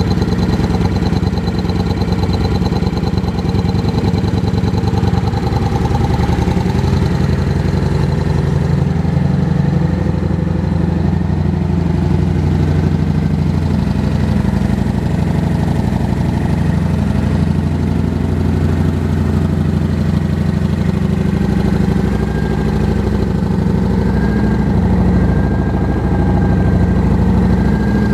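2007 Kawasaki Vulcan 900's V-twin engine idling steadily.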